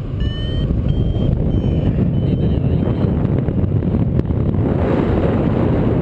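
Strong wind buffeting the microphone, a heavy steady rumble. Over it, a flight variometer gives about five short high beeps in the first three seconds, then falls silent. A vario beeps like this while the glider is climbing in lift.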